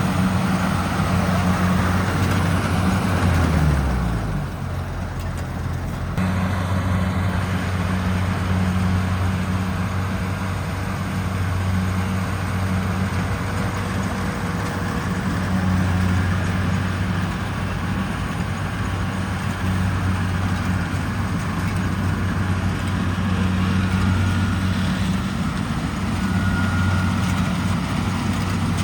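Combine harvester's diesel engine running steadily under harvesting load, a low steady drone. About three seconds in its pitch falls and the sound thins briefly, and the full running sound returns about six seconds in.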